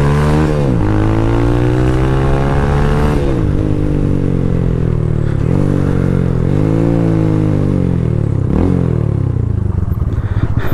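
TVS Apache RTR motorcycle's single-cylinder engine being blipped while the bike rolls slowly: the engine note rises and falls about four times as the throttle is opened and closed.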